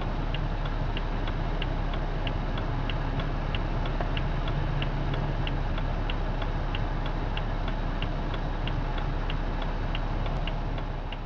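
BMW 328xi coupe's turn-signal indicator ticking steadily, about three clicks a second, inside the cabin over the steady hum of the car's engine and tyres.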